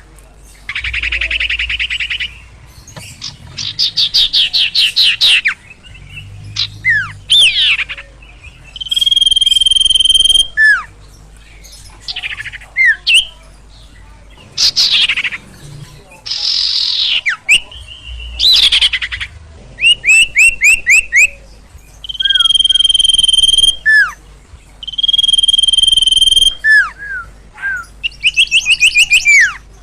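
A bird kept and sold under the local name sirtu (sirpo) singing vigorously, with no pause. Its song mixes held, steady whistled notes, fast rattling trills and short downward-sliding chirps.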